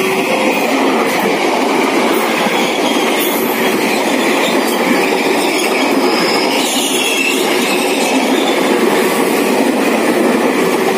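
KRL Commuter Line electric train passing close by, its wheels rumbling and clattering over the rails, with a faint squeal of wheels around the middle. The level-crossing warning alarm, a low-toned bell, sounds faintly beneath the train.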